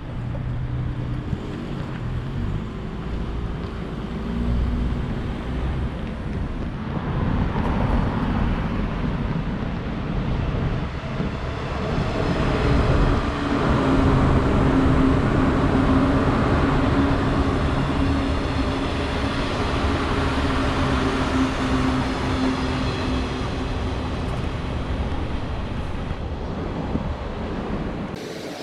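JR East 185 series electric train approaching and passing close by: a steady rumble of running gear on the rails that builds to its loudest about halfway through. A steady low tone runs over it, then the sound fades slightly towards the end.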